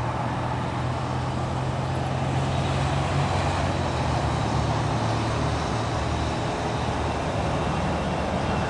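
Motor vehicle engine running steadily, a low, even hum with a constant background rush.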